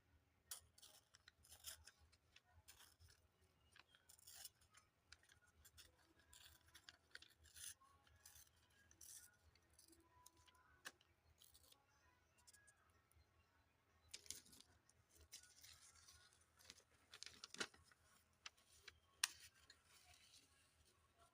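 Faint crackling and rustling of paper being worked by hand, with scattered short clicks, busier about two-thirds of the way through.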